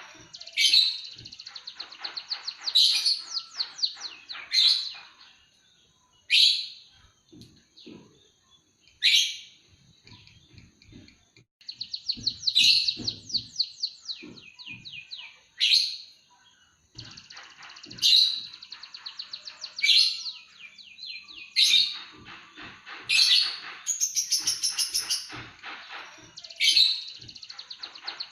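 Emprit kaji songbird singing canary-style song: rapid trills and sharp chirps in phrases every second or two, with a thin high whistle held between them and a quieter lull between about six and eleven seconds in.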